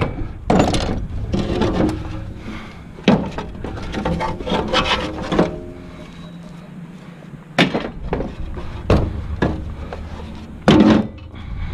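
Scrap metal parts being knocked and pried apart by hand: a series of separate clanks and knocks, some with a brief metallic ring, with scraping and rubbing between them.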